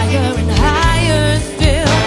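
A woman singing with vibrato over a live band, with a sustained bass line underneath.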